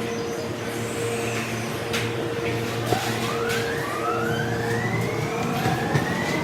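Electric train pulling away, played back at double speed: a steady mechanical hum, then the traction motors' whine rising in pitch in several steps from about halfway through, with a few sharp clicks and knocks.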